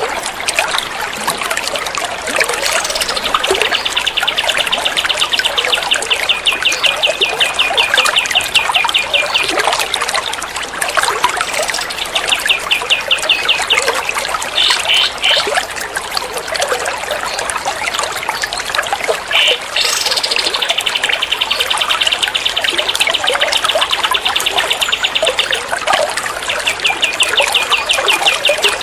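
Songbird rapid-fire trills, fast even notes strung together for several seconds at a time, with shorter bursts between, over a steady trickle of running water.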